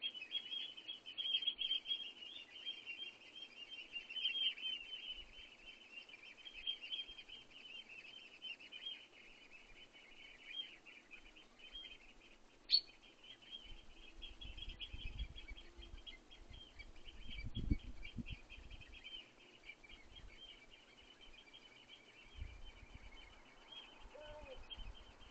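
Small songbirds twittering in a continuous, rapid chatter. There is a single sharp click about halfway through and some low rumbling a little after it. Near the end a wood pigeon begins cooing with low, rounded calls.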